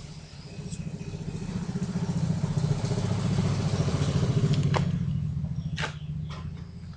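Vespa Super's two-stroke single-cylinder engine running through a homemade racing exhaust. It swells louder over a couple of seconds, holds, then eases off late on, with a couple of sharp clicks near the end.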